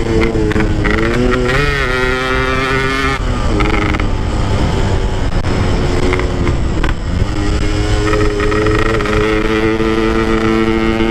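Motorcycle engine running under load while riding, its pitch holding fairly steady with brief dips about three and seven seconds in, over heavy low wind rumble on the microphone.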